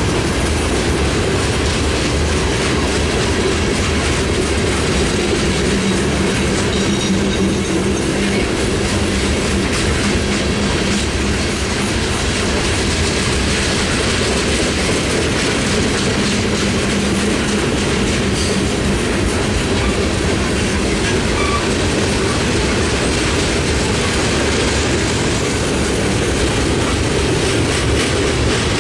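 Freight train cars rolling steadily past close by: the continuous noise of steel wheels running on the rails as gondolas, centerbeam lumber flatcars and boxcars go by.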